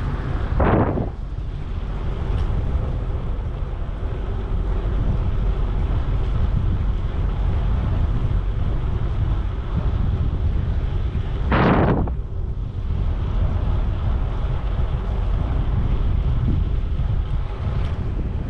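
Wind buffeting the microphone of a camera riding on a moving bicycle: a steady low rumble, with two brief louder whooshes, about a second in and about twelve seconds in.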